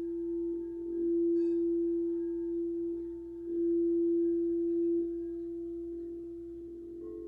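Quartz crystal singing bowl ringing one steady, pure tone that swells louder twice; a second, higher-pitched bowl joins near the end.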